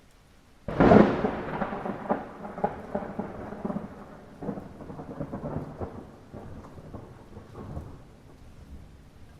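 A thunderclap breaking sharply under a second in, then rolling and crackling for several seconds as it fades, over a steady light rain.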